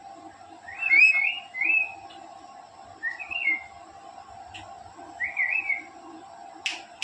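Pet parrot whistling three short bursts of quick warbling chirps a couple of seconds apart, with a sharp click near the end.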